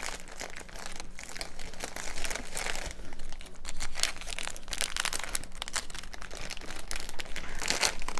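Plastic bread wrapper being crinkled and handled, with irregular crackling throughout.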